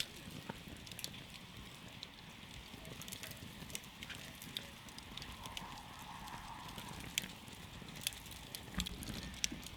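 Campfire burning: a steady low rumble and hiss with irregular sharp crackles and pops from the burning wood, a few louder pops near the end.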